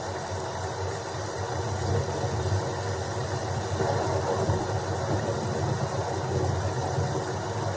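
Steady rain with a continuous low rumble underneath, no distinct thunderclaps.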